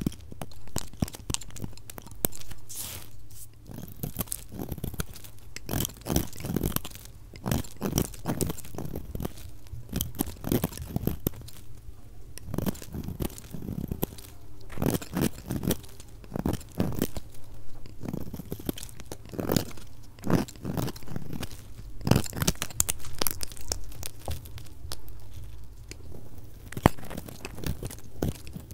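A knife cutting through bars of soap: a dense run of short, crisp crunching strokes, sped up to double speed.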